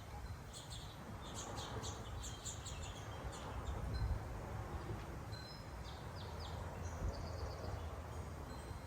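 Small birds chirping at backyard feeders: a run of quick high chirps, then a few short falling notes and a couple of higher ones, over a steady low background hum.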